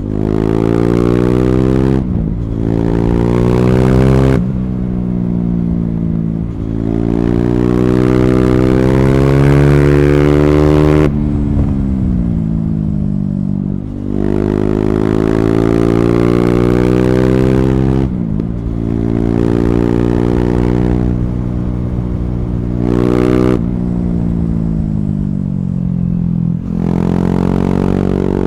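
KTM Duke 390's single-cylinder engine breathing through an Akrapovic slip-on exhaust with the catalytic converter removed, pulling hard through the gears. The revs climb and drop sharply at each upshift. About halfway through the revs fall away for a few seconds, then it pulls up through several gears again.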